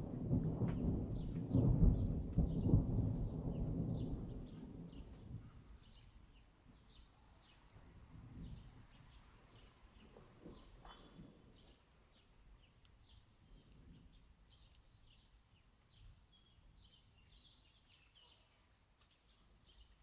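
A roll of thunder rumbling low and heavy, peaking about two seconds in and dying away by about five seconds. After it comes a long quiet stretch of faint, scattered high ticks.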